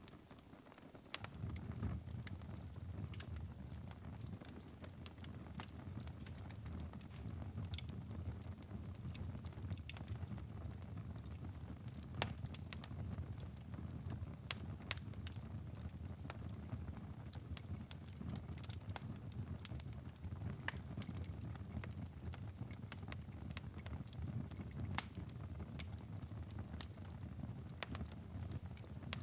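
Wood fire burning in a fireplace: a steady low rumble of flames with irregular sharp crackles and pops throughout. Briefly quieter in the first second.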